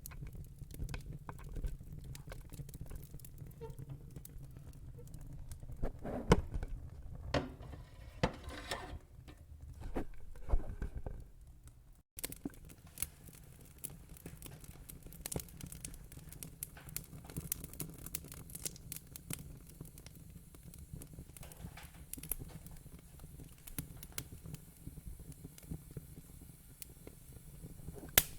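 Wood fire in a fire pit crackling, with scattered sharp pops over a low rumble; the loudest pops come about six to eleven seconds in. About twelve seconds in the sound breaks off for an instant and resumes with a lighter, crisper crackle.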